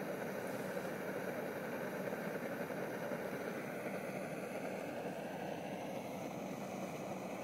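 A steady engine drone, even and unchanging, starting abruptly at a cut.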